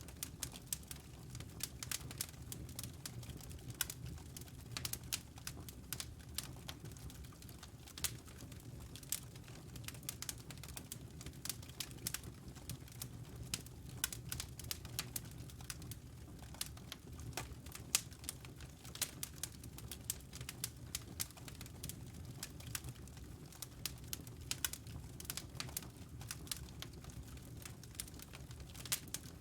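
Wood fire crackling: a dense run of irregular snaps and pops over a steady low rumble.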